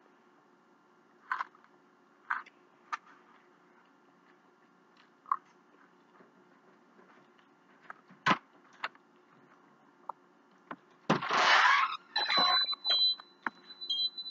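Eating sounds: scattered soft clicks and smacks of chewing and food being handled. About eleven seconds in comes a loud, rough burst of noise, and after it a high-pitched electronic beep tone that breaks on and off.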